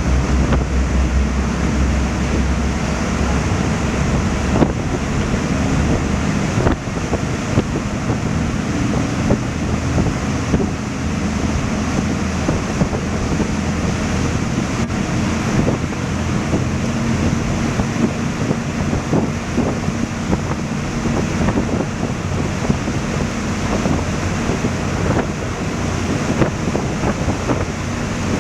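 Wind buffeting the microphone over the wash of the sea, with a steady low drone underneath.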